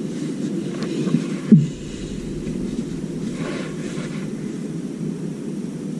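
A steady low rumble, with one sharp thud about one and a half seconds in.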